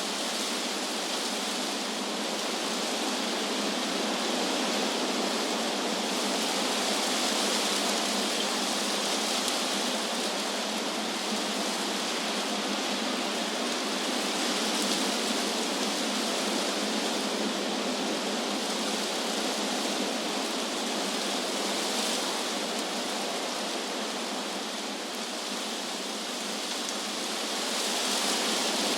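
Wind blowing through trees, a steady rushing hiss of leaves that swells and eases slowly, dipping a little near the end before rising again.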